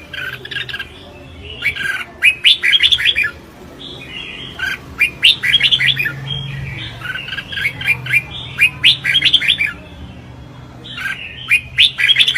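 Red-whiskered bulbul singing its contest song: phrases of quick, bright chirping notes, each a second or two long, repeated with short pauses.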